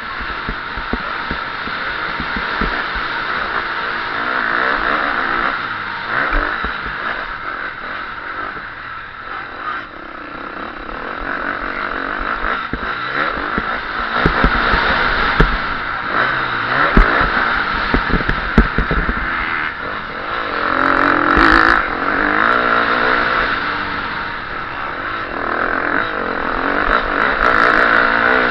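KTM SX-F 350 four-stroke single-cylinder motocross engine, recorded on board, revving up and down in repeated swells as the bike accelerates and backs off, with several low knocks mixed in.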